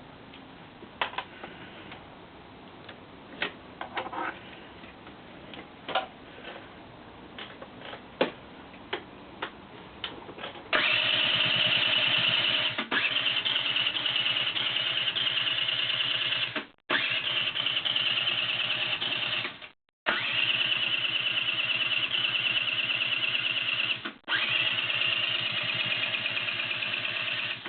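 Scattered clicks and ticks, then a Peugeot Speedfight scooter's electric starter cranking the engine in several long bursts with short pauses between them, a fast steady whir that never catches and runs: the scooter will not start despite a new spark plug, new petrol and good compression.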